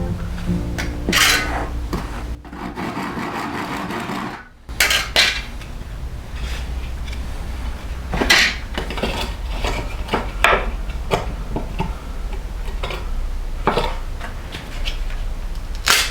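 Wooden clatter, knocks and scraping as a kerf-cut board is handled and forced to bend into a curve, with a stretch of rubbing between about one and four seconds in.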